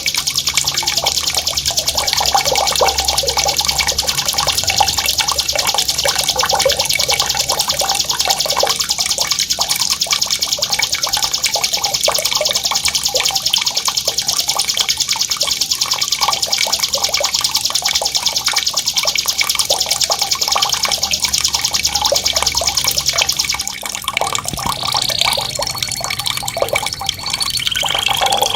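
A songbird's sharp, high rolling trill, a very fast continuous rattle of notes held for over twenty seconds, over running, bubbling water. Near the end the trill breaks off into a few shorter whistled notes, one held and one rising.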